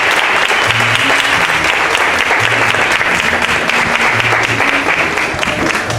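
Audience clapping loudly and continuously, with music playing underneath: a deep bass note sounds about every second and a half. The clapping starts to thin out near the end.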